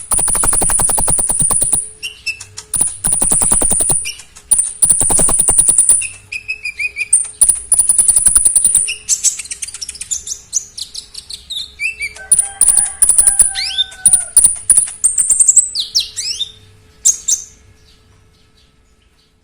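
Konin (common iora) singing loudly: several long, fast, high trills in a row, then a run of quick rising and falling whistled notes that fade out near the end.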